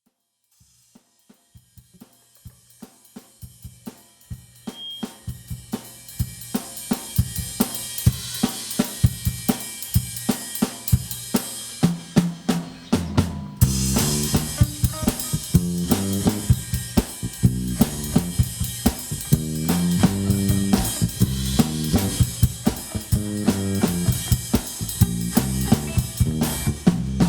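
A live band playing an instrumental intro. A drum kit beat with snare and bass drum fades in from silence, low bass notes join about twelve seconds in, and the full band comes in a moment later.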